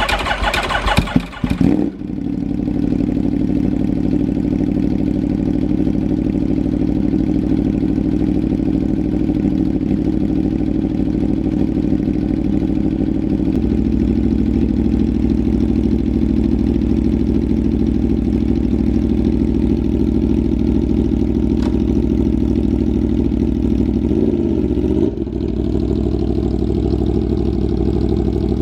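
Aprilia RSV4 Factory V4 motorcycle engine with a Racefit slip-on exhaust, starting up over the first couple of seconds and then idling steadily. The engine note dips and wobbles briefly about twenty-four seconds in.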